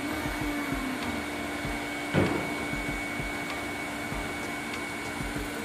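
Steady whir of the fan in a tornado-vortex exhibit, with a constant hum, and a single knock about two seconds in.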